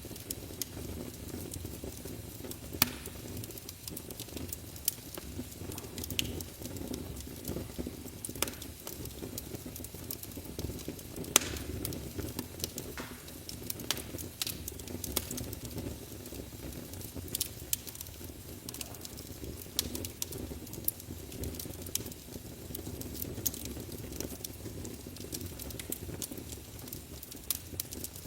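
Wood fire burning in a fireplace: a steady low rumble of the flames, with irregular sharp crackles and pops from the burning wood scattered throughout.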